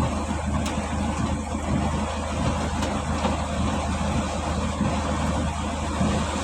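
Heavy rain pouring down on a stopped vehicle whose engine idles steadily underneath, in strong wind.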